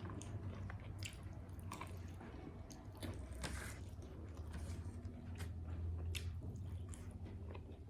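A person chewing and biting food close to the microphone, with scattered short sharp clicks from the mouth and food. A low steady hum runs underneath.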